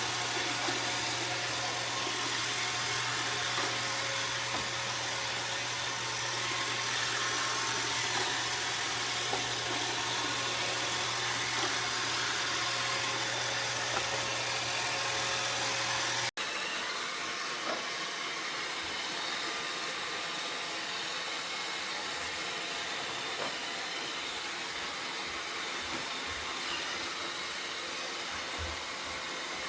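iRobot Roomba Combo robot vacuum running, a steady machine whir of its suction motor and brushes. The sound drops out for an instant about sixteen seconds in and resumes slightly quieter, without the low hum.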